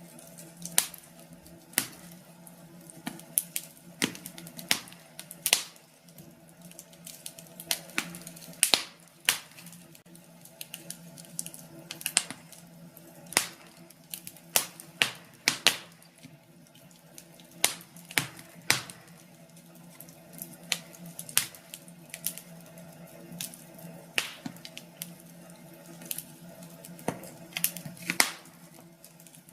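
Wood fire crackling in a fireplace: irregular sharp pops and snaps at uneven intervals, over a faint steady hum.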